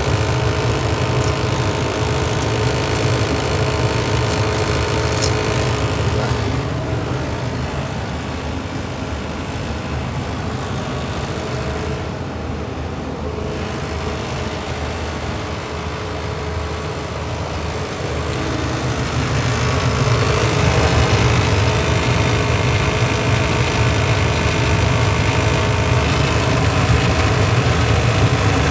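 Furnace draft inducer running noisily: a steady mechanical hum with several steady tones. It drops in level about seven seconds in and comes back louder about twenty seconds in.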